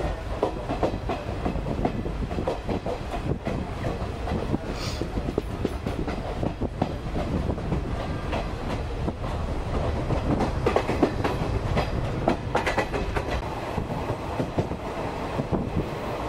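Passenger train coach running along the track, heard from inside: a steady rumble of wheels on rails with frequent irregular clicks and clacks over the rail joints.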